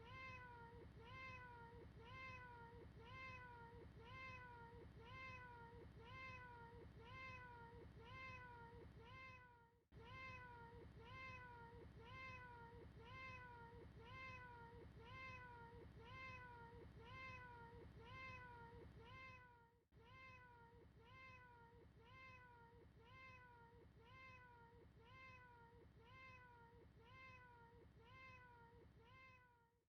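Faint cat meow sound repeating over and over, short arched calls coming about every 0.6 seconds, with a brief break about every ten seconds.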